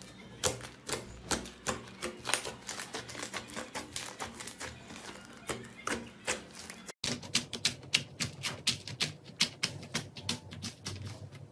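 Slime being pressed and squeezed, giving rapid, irregular crackling clicks and pops. The sound cuts out for a split second about seven seconds in and the clicking resumes, denser.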